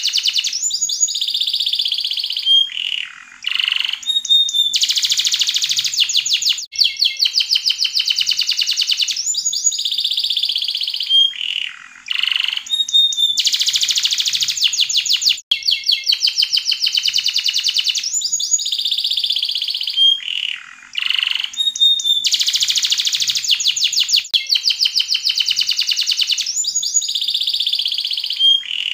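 Yellow domestic canary singing a continuous song of fast rolling trills and rapid repeated high notes, broken by short pauses between phrases. The same run of phrases recurs about every nine seconds.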